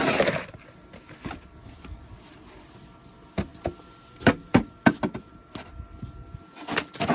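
A snow shovel scraping once, then a quick run of sharp knocks and cracks, about seven in two seconds, like hard-packed snow and ice breaking up.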